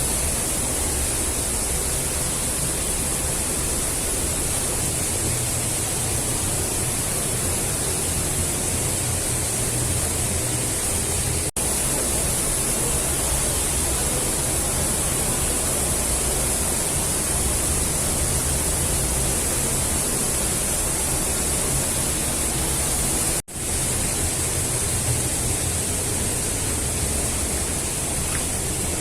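Steady, loud rush of a waterfall's falling water, unbroken except for two split-second dropouts, one near the middle and one about four-fifths through.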